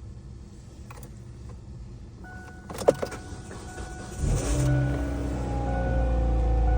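Kia Spectra's four-cylinder engine started from cold: a sharp click, then the starter cranks briefly and the engine catches about four seconds in. It settles into a steady, fast cold idle.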